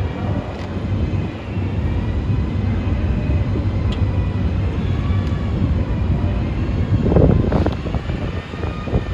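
Steady low rumble of a running vehicle, swelling briefly about seven seconds in.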